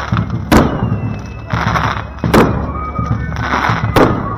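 Festival fireworks: three sharp bangs about a second and a half to two seconds apart, each with a hissing burst around it, over faint band music.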